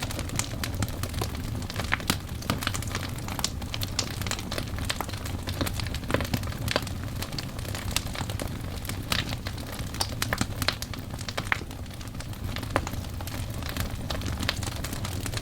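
Burning wood logs crackling, with irregular sharp pops and snaps over a steady low rumble of the fire.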